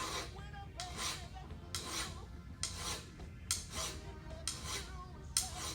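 Hand file rasping in even strokes about once a second, seven strokes in all, across the edge of a big-block engine's main bearing cap, chamfering it so the cap will sit flat against the block.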